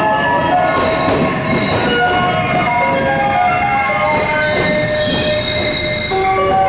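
Electric commuter train moving slowly along the platform, its wheels and brakes squealing in a string of shifting high tones over a steady rumble.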